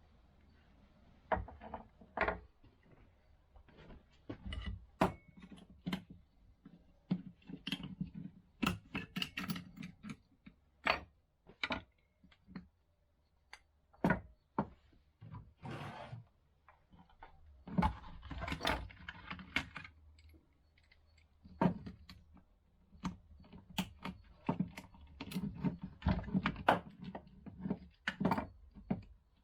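Irregular clicks, clinks and knocks of small metal parts and tools being handled and set down on a workbench, some in quick clusters.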